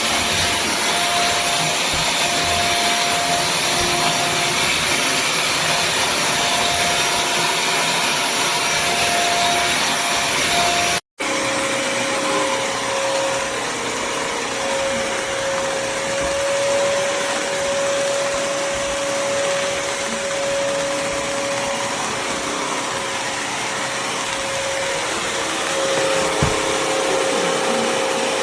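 Bissell CrossWave HydroSteam Pet wet-dry vacuum running: a steady rush of suction with a constant motor whine. The sound drops out for a moment about eleven seconds in and resumes with the whine a little lower in pitch.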